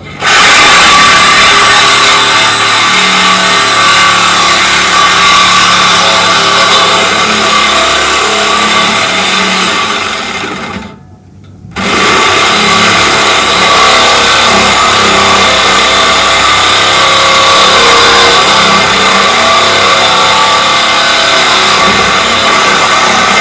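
Corded reciprocating saw (Sawzall) cutting through a truck's exhaust pipe: a loud, steady cutting noise that starts abruptly, eases off and stops about ten seconds in, then starts again a second later.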